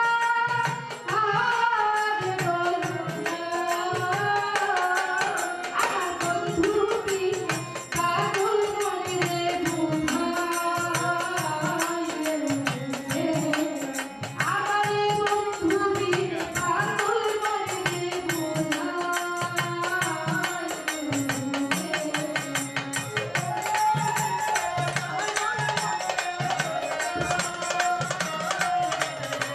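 Bengali folk music: a voice singing a winding melody over a steady drum beat.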